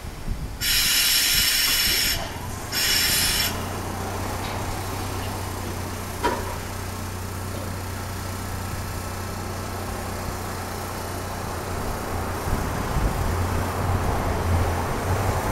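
Standing electric railcar of the Echizen Railway MC6101 series: two loud bursts of hissing air in the first few seconds, then a steady low hum from its onboard equipment, with a single click about six seconds in.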